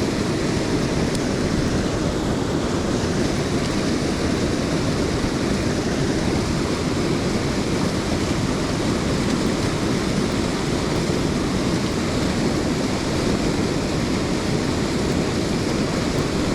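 Mountain stream water rushing steadily, an even, unbroken rush with no changes.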